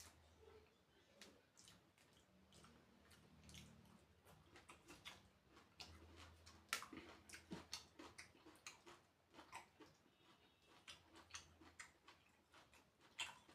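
Faint eating sounds: irregular soft clicks and smacks of someone chewing food, with a sharper click about seven seconds in.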